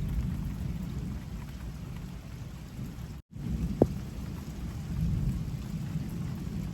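Heavy rain pouring down in a thunderstorm, over a steady low rumble. The sound cuts out for an instant about three seconds in, and a single sharp tap follows shortly after.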